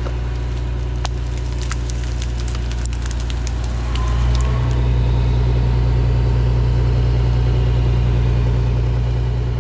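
Diesel engine of a heavy lifting machine running steadily, then working harder and louder about four seconds in. Scattered sharp cracks and clicks sound over the first few seconds.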